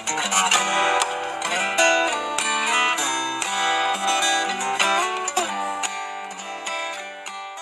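Solo fingerstyle acoustic guitar playing a busy melodic passage of plucked notes, the notes thinning out and fading toward the end.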